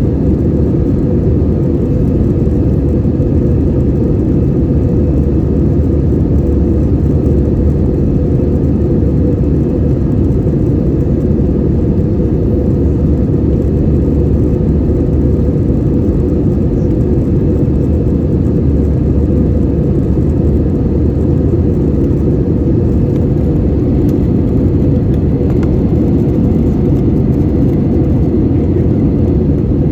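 Steady, even cabin drone of an Airbus A320-200 in flight: the jet engines and the airflow over the fuselage make a deep noise with no change throughout.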